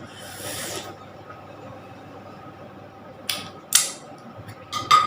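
Eating at a meal: a brief rustle, then a few short, sharp scrapes against a plate in the last two seconds.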